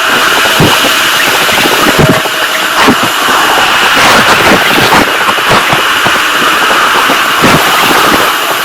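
Heavy rain pouring down hard, a dense steady hiss packed with many close drops striking.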